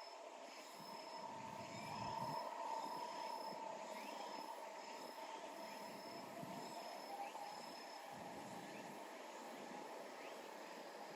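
Faint outdoor ambience with an insect calling in short, high, evenly spaced pulses, a little more than one a second, which pause about three-quarters of the way through and start again near the end. A faint steady hum lies underneath.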